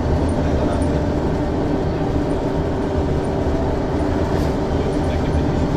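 Ikarus 435 articulated bus's diesel engine running at a steady pitch, with a deep drone and a steady engine hum.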